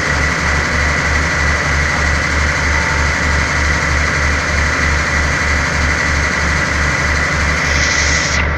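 Diesel train engine idling steadily, with a low throb about three times a second and a steady high whine over it.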